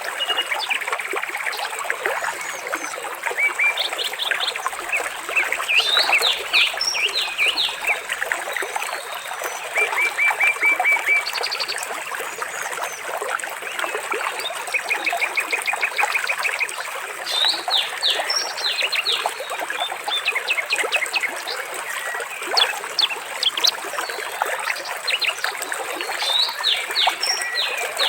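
Birds chirping and trilling, several at once, with quick repeated notes and short trilled runs, over a steady trickle of running water.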